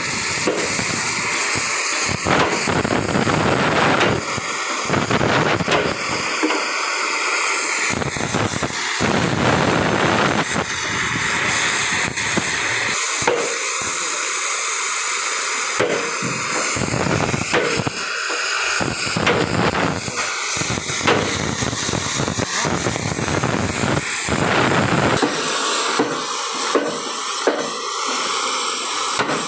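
Loud, steady hissing with sharp clicks and knocks scattered through it, coming more often near the end.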